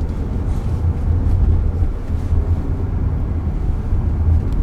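Steady low road and tyre rumble inside the cabin of a moving Waymo robotaxi.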